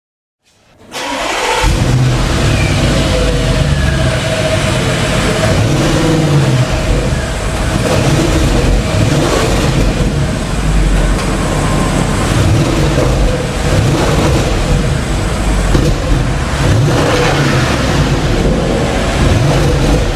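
Audi S8 with a Capristo valved exhaust, loud engine and exhaust note coming in sharply about a second in after a brief silence, then running steadily with its pitch wavering up and down as it revs.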